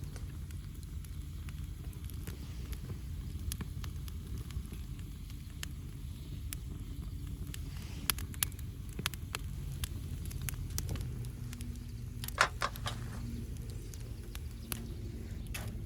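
Wood campfire crackling, with scattered sharp pops and the loudest snap about twelve seconds in, over a steady low rumble.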